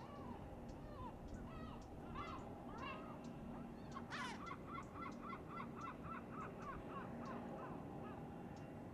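Birds calling: scattered single squawking calls, then from about halfway a run of about a dozen repeated calls, roughly four a second, over a faint steady hum.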